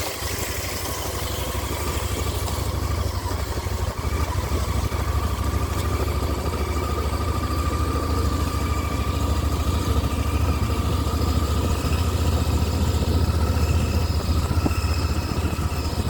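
Motorcycle engine running steadily at low speed, a constant low drone that grows a little louder over the first few seconds.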